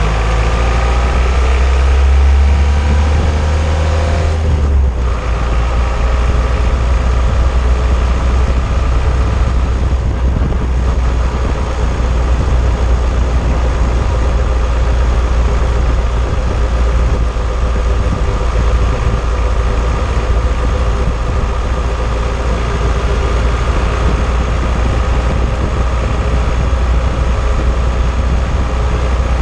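An old car driving, heard from under the car at its anti-roll bar: heavy low road and engine rumble. The engine's pitch rises for about the first five seconds, breaks off briefly, and then the car runs on steadily.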